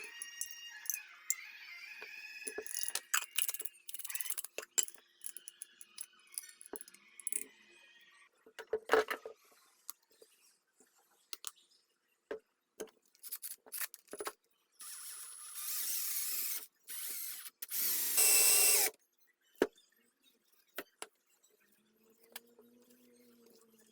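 Workbench sounds from restoring a Zippo lighter: squeaky rubbing for the first several seconds, then scattered small clicks and taps, then three short bursts of hissing noise, the last the loudest.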